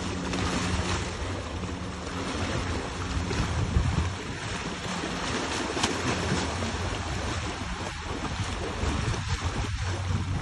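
A boat's motor running steadily with a low hum, under rushing water and wind buffeting the microphone.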